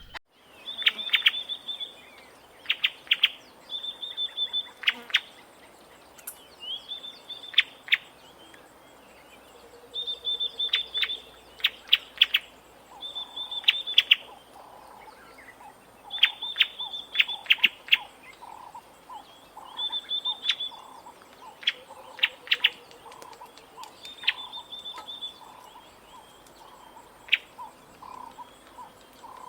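A bird calling over and over, about every two seconds: a high held note followed by a few quick, sharp down-slurred notes. From about halfway through, a faint rapid pulsing sounds lower down.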